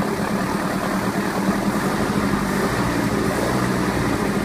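Merc 488 marine engine running steadily at idle in the water.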